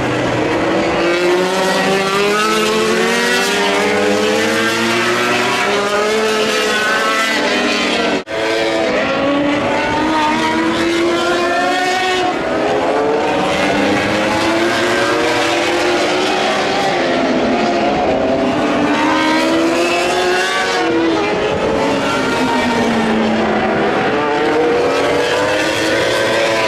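MotoGP racing motorcycles' 1000 cc four-cylinder engines at high revs, several overlapping, each climbing in pitch and dropping back at every upshift as the bikes accelerate. The sound cuts out for an instant about eight seconds in.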